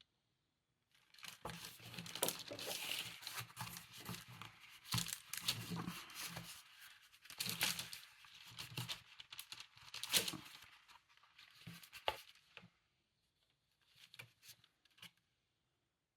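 Paper crinkling and rustling, with sharp pops and scrapes, as a small jewelry awl is pushed through folded journal pages to punch stitching holes. The rustling goes on for about eleven seconds and stops abruptly, followed by a few faint clicks.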